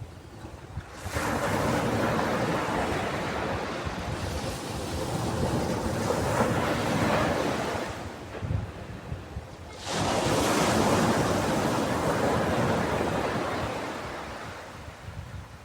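Ocean waves breaking on a beach: two waves come in, about a second in and again near ten seconds, each a sudden rush of surf that slowly washes back and fades.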